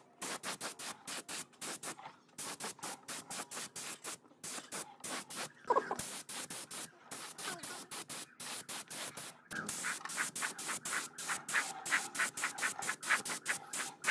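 Rhythmic hand-worked abrasive strokes on a workpiece, about five a second and steady throughout. Each stroke takes on a faint ring in the last few seconds.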